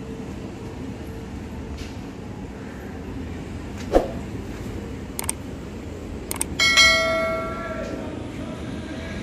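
Local train running slowly through a railway yard with a steady rumble; a sharp knock about four seconds in, a few clicks, then a bell-like metallic ring about two-thirds of the way through that fades over about a second.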